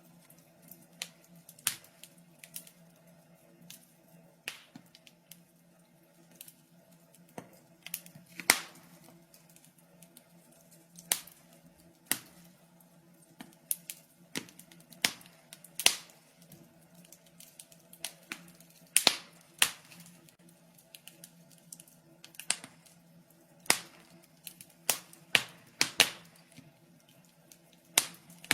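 Wood fire in a fireplace crackling: irregular sharp pops and snaps, a few in most seconds, some louder than others, over a faint steady hum.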